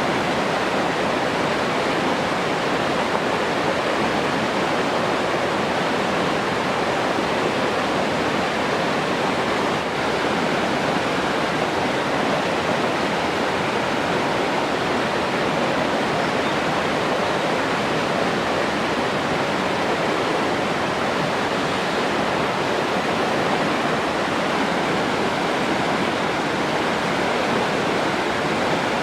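Steady rushing water, an even unbroken wash with no changes.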